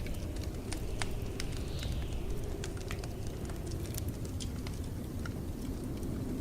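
Wood fire crackling with scattered sharp pops over a steady low rumble of blizzard wind, which now and then whistles faintly higher up.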